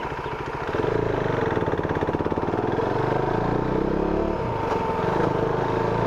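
Motorcycle engine running with a rapid, even pulse. It gets louder about a second in, and its pitch shifts a little up and down.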